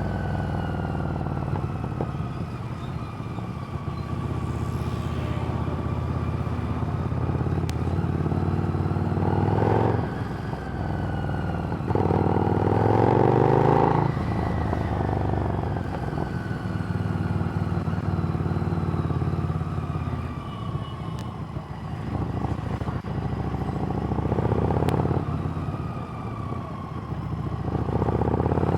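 Harley-Davidson Street Rod's 750 cc V-twin through a Screamin' Eagle exhaust, ridden on the road: the engine note rises and falls through the gears, with several louder stretches of throttle.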